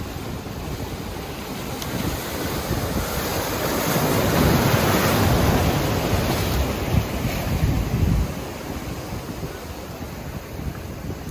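Ocean surf from a typhoon swell breaking on the beach: a wave's crash and wash swells up about a third of the way in and fades off later. Wind buffets the microphone throughout.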